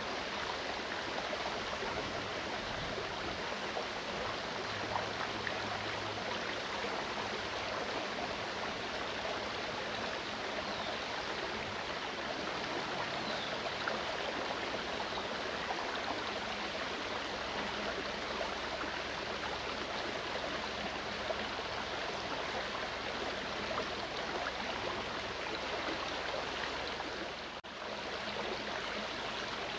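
Clear mountain stream running over rocks: a steady rush of flowing water.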